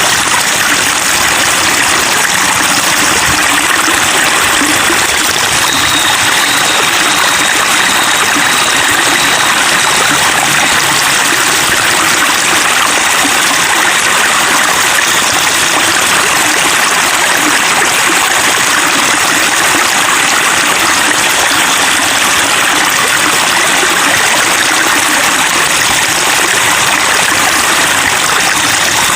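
Water running and babbling steadily over stones, like a small stream.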